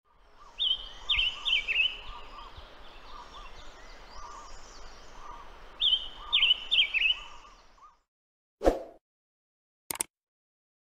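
Silver-eared mesia singing a loud phrase of four quick whistled notes, twice about five seconds apart, over a steady chorus of other birds with a repeated lower note. The birdsong cuts off about eight seconds in, followed by a short whoosh and a click.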